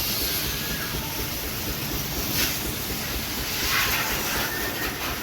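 High-pressure washer spraying a truck during its first wash with diesel and Surf detergent: a steady hiss of water, surging louder twice as the jet strikes the body.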